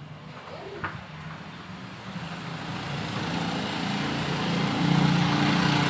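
A motor running and growing steadily louder, with a low hum under a rising rushing noise.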